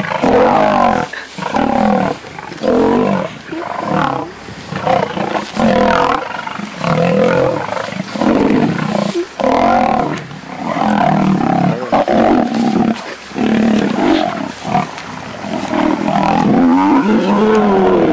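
Lions growling and roaring over and over while male lions maul another male lion: a loud, almost continuous run of drawn-out calls, with a call sliding in pitch near the end.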